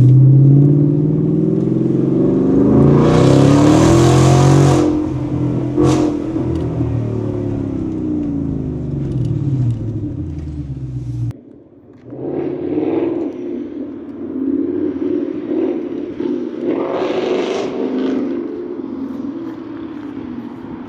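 Ford Mustang GT's 5.0 V8 through a full MBRP aftermarket exhaust, revving up and down with a loud rev about four seconds in. The sound cuts off abruptly about eleven seconds in; the engine is then heard more quietly, revving twice more.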